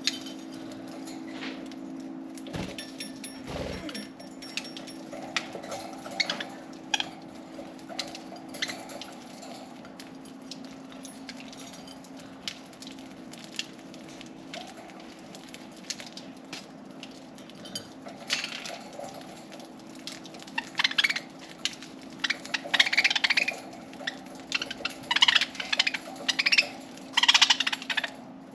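Pet budgerigars chirping and chattering, louder and busier in the last third, over scattered small clicks and taps. A steady low hum runs underneath.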